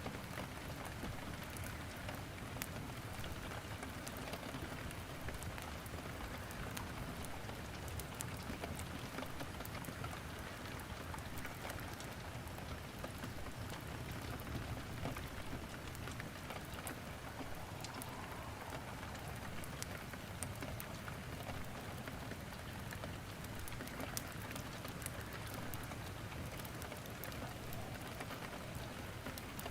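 Steady rain, dotted with frequent small crackles and pops from logs burning in a fireplace.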